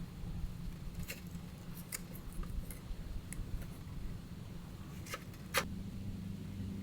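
A handful of short, sharp clicks and light clinks, as of small hard objects being handled, over a low steady hum. The loudest click comes past the middle.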